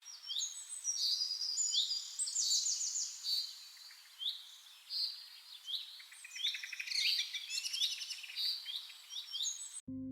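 Several songbirds singing at once: repeated short, high whistled notes and quick trills overlapping. The birdsong cuts off abruptly just before the end.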